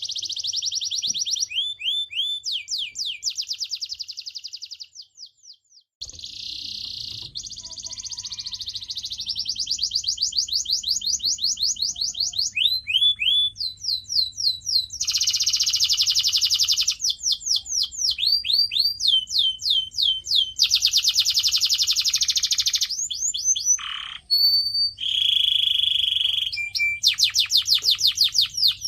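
Domestic canary singing a long song of fast trills and rapidly repeated sweeping notes, changing from one tour to the next, with a brief pause about five seconds in.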